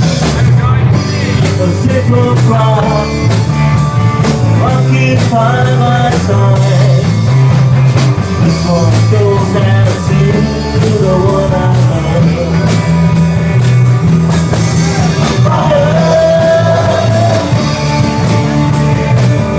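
Live rock band playing loudly, with a male singer's voice over electric guitar, bass and a drum kit keeping a steady beat.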